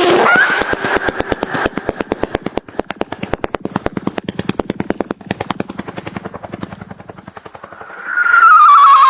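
A string of firecrackers going off in rapid succession, about ten sharp pops a second, slowly fading. Near the end a loud wavering whistle, falling slightly in pitch, starts up.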